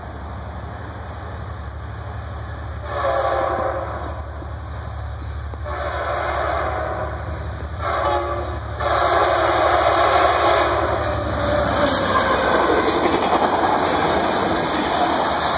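Amtrak Piedmont passenger train's diesel locomotive horn sounding four blasts, long, long, short, long: the grade-crossing warning as the train approaches. The train then rolls past loudly with a steady rushing rumble of its cars on the rails.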